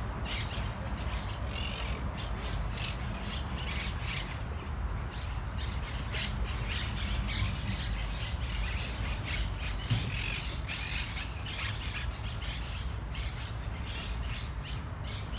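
A flock of parrots squawking in a dense run of short, harsh calls, over a steady low rumble, with one sharp knock about two-thirds of the way through.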